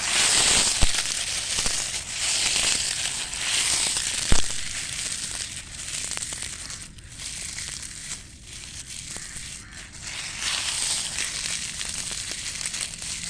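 Dry leaves crackling as they are crushed, in uneven surges of crunching with a sharp snap about four seconds in.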